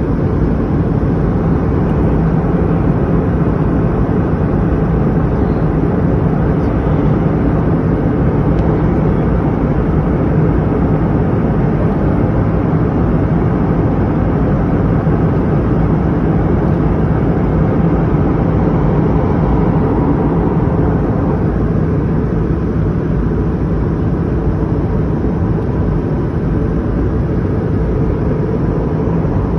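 Steady drone of an airliner cabin: engine and airflow noise heard from inside the plane, strongest in the low range and unchanging throughout.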